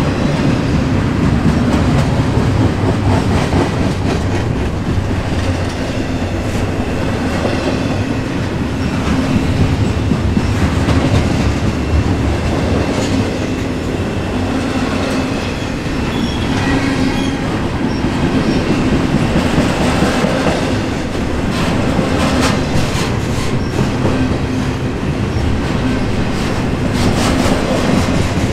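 Intermodal container freight train rolling past: a steady rumble of wheels on rail with clicking and clatter over the joints, and a faint wheel squeal.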